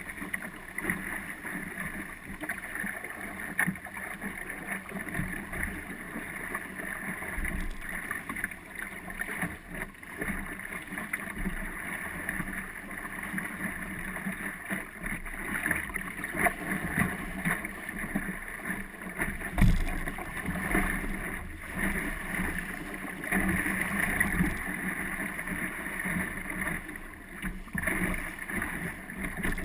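Water rushing and slapping along the hull of an Optimist sailing dinghy under way, with wind buffeting the microphone. A single sharp knock comes about twenty seconds in.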